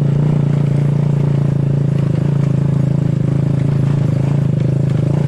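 Motor scooter engine running at a steady pace while riding, a steady low drone with no revving.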